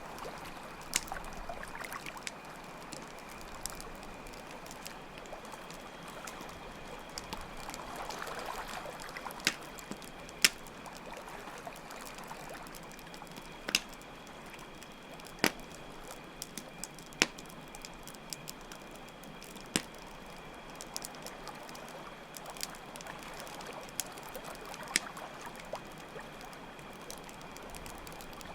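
Campfire crackling with sharp, irregular pops over a steady trickle of running water, with a constant high cricket trill behind.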